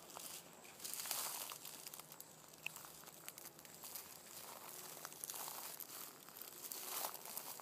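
Irregular rustling and crunching of dry leaves and brush, with scattered crackles and several louder rustles.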